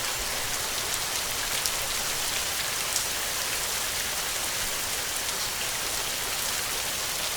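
Heavy rain falling steadily: a dense, even hiss with fine scattered drop ticks and no thunder.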